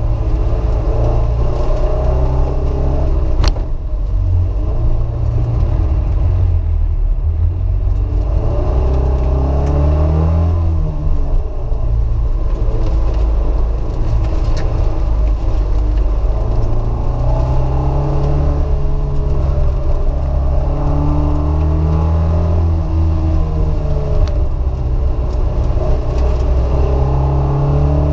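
Alfa Romeo Alfetta's engine heard from inside the cabin under hard driving, its pitch rising and falling again and again as it accelerates, shifts and slows through an autocross course. A single sharp click about three and a half seconds in.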